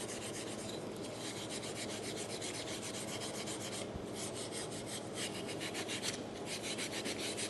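Brillo steel-wool soap pad, wet with soda pop, scrubbed in quick, steady back-and-forth strokes over an old car dome light, which is not cleaning up.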